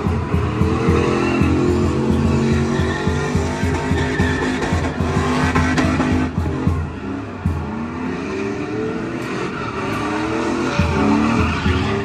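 Truck engine revving hard and repeatedly while the tyres squeal in a burnout.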